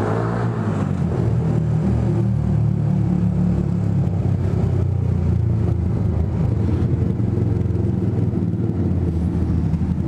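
2009 Yamaha YZF R125's single-cylinder four-stroke engine running through a Scorpion aftermarket exhaust at low revs in first gear, a steady deep exhaust note inside a multi-storey car park.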